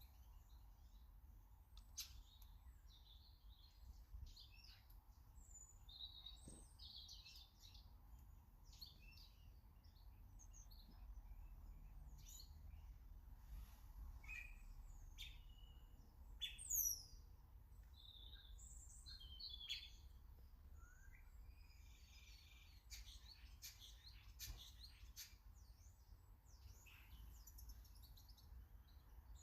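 Small garden birds chirping and calling in many short high notes, with one louder downward-sweeping call about seventeen seconds in, over a faint low background rumble.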